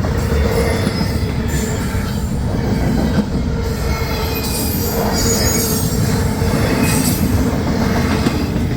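Double-stack intermodal freight cars of a long train rolling past at speed: a steady, loud rumble of wheels on rail, with high-pitched wheel squeal in the middle.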